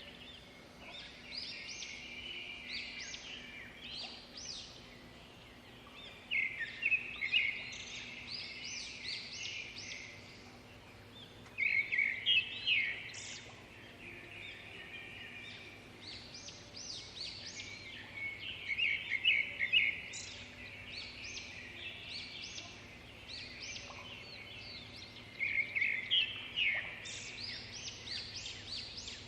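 Birds chirping and singing in quick bouts that recur every six or seven seconds, over a faint steady hum.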